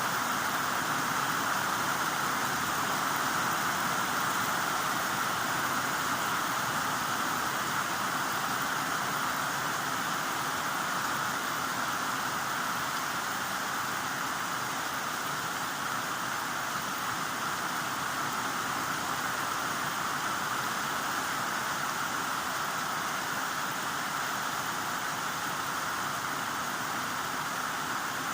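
Heavy rain falling steadily, an even hiss that stays unchanged throughout.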